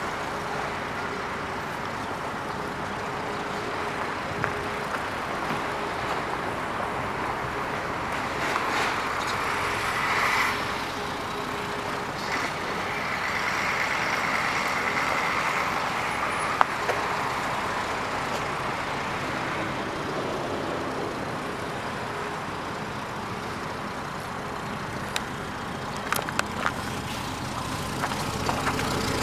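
Steady road traffic noise from passing vehicles, swelling louder twice, with a few light clicks near the end.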